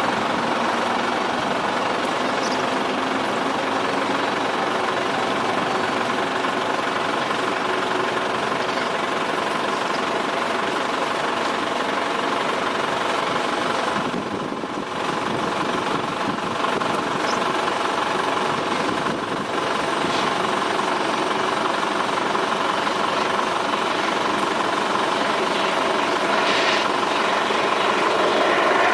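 Boeing 747-400 freighter's four jet engines running, a steady loud rush with a whine through it that dips briefly about halfway through.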